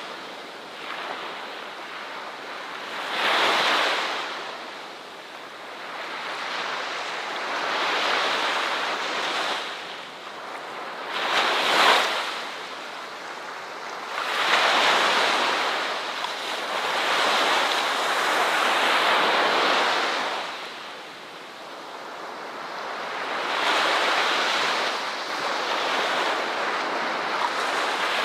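Ocean waves breaking on a shore, each wave swelling in a rush of surf and fading away every few seconds; one sharper break comes near the middle.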